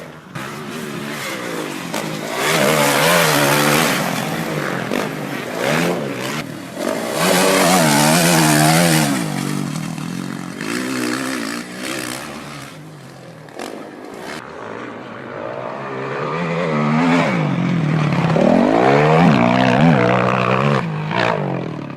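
Dirt bike engines revving, their pitch rising and falling over and over with the throttle. The sound changes abruptly about two-thirds of the way through, as from one clip to another.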